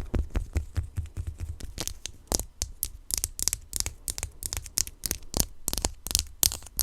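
Close-miked fingernail tapping and scratching: a quick, irregular run of sharp clicks, several a second, over low handling thuds.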